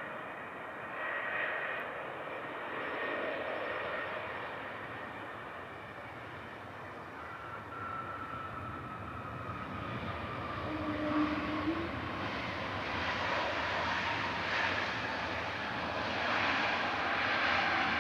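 Jet airliner engines, a steady rushing noise that grows louder toward the end, with a thin whine that slowly falls in pitch midway.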